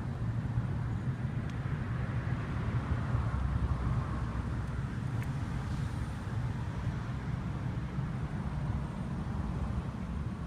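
Steady low motor-vehicle rumble, a little louder in the first half.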